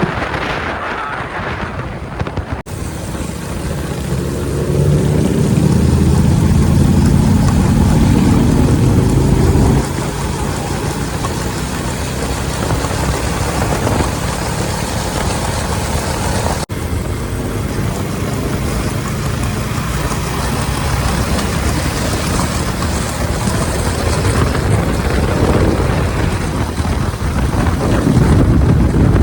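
Motorcycle engine running on the road under steady wind and road noise, its pitch climbing as it speeds up for a few seconds about a quarter of the way in. The sound breaks off abruptly twice.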